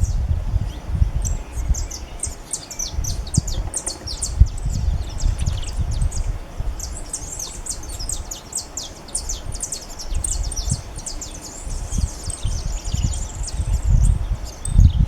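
Small songbirds twittering in quick runs of high, thin chirps, busiest around 3–5 s and again from about 8 to 13 s, over an uneven low rumble.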